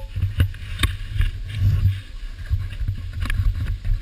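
Wind buffeting a small camera microphone, giving a steady low rumble, with scattered clicks and knocks throughout.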